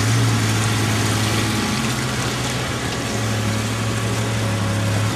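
Off-road vehicle's engine running steadily at low revs, its hum stepping slightly higher about two seconds in and settling back about a second later, over a steady rushing hiss.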